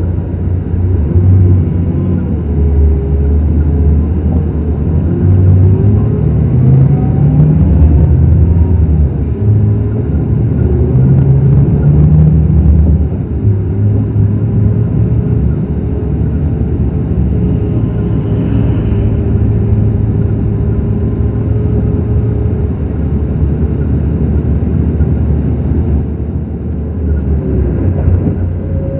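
Scania K360 coach's diesel engine running, its pitch rising and falling in the first half as it pulls away and changes gear, then holding steadier as it cruises.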